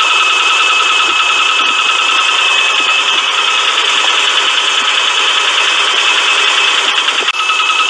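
Engine idling with a steady, rapid rattling and clacking from a loose timing belt tensioner, a steady high whine running alongside. The sound dips briefly near the end.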